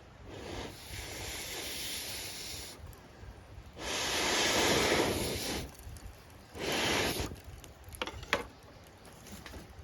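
Three long hissing rushes of air, like breath blown into a small wood fire in a B6-size fire stand, the middle one loudest, followed by a few sharp crackles from the fire.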